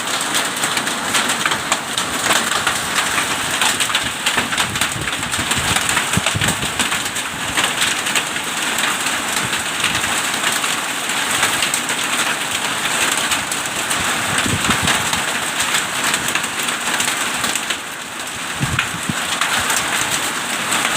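Hailstorm: hail and heavy rain pelting down in a dense, continuous clatter of countless small impacts, with a few short low thumps now and then.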